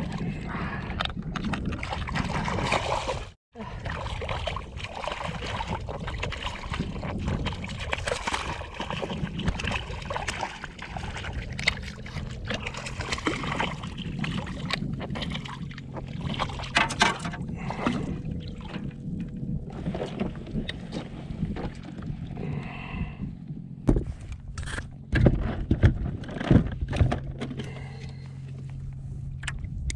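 Water sloshing and lapping around a kayak on the water, with irregular knocks and clunks on the hull. A brief gap of silence comes about three seconds in, and a burst of louder knocks comes a little before the end.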